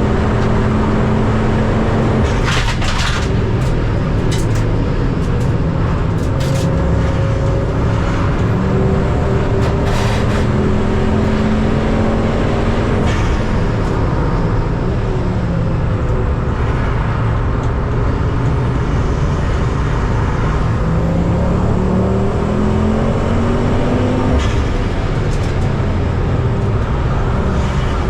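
Racing car engine running hard on track, its pitch repeatedly climbing under acceleration and dropping again as it brakes and shifts.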